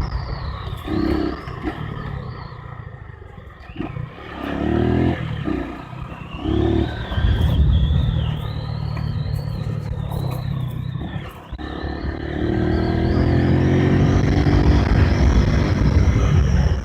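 Honda CG 150 single-cylinder motorcycle engine under way off-road, the throttle opening and closing in short surges. About twelve seconds in it settles into a steady, fuller pull.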